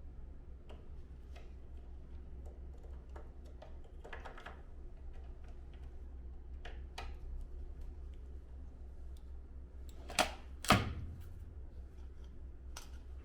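Light plastic clicks and knocks from the panels and parts of an air conditioner's indoor unit being handled and fitted back together, with two louder sharp snaps about ten seconds in, over a low steady hum.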